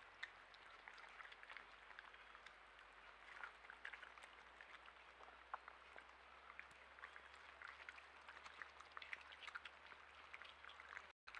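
Faint steady rain, with many small separate drops ticking on surfaces.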